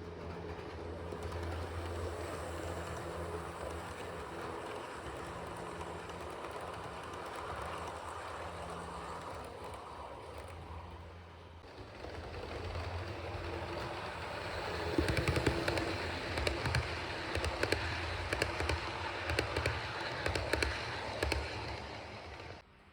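Model train running on its track: a steady low motor hum with wheels clicking over the rails. From about two-thirds of the way in, the clicking becomes a dense, rapid clatter.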